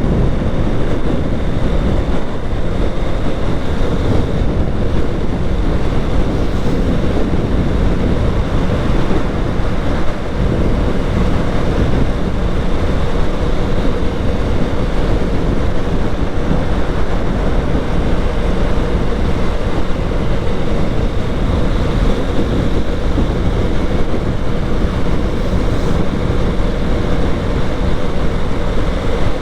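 Steady wind rush buffeting an action camera's microphone on a moving motorcycle, with the bike's engine running and road noise underneath.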